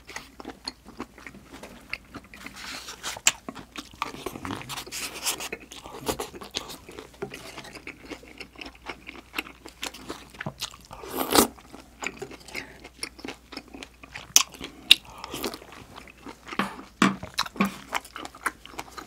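Close-miked wet chewing and mouth clicks of a person eating spicy stir-fried small octopus (nakji-bokkeum), with a louder mouthful about eleven seconds in.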